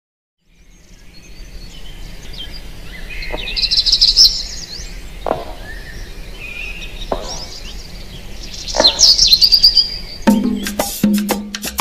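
Birds chirping and twittering, fading in and growing louder, with the loudest calls about four and nine seconds in. About ten seconds in, Latin dance music starts with percussion and a bass line.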